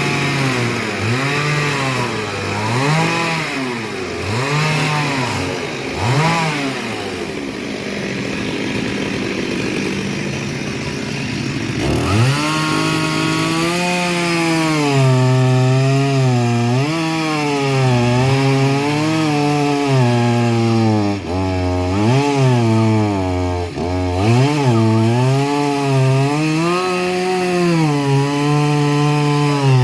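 Two-stroke chainsaw running, its engine pitch rising and falling again and again as the throttle is worked. About twelve seconds in it picks up and keeps revving up and down.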